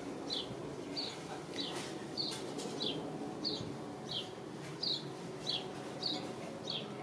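A bird chirping over and over, one short, slightly falling note about every two-thirds of a second, over a low steady background hum.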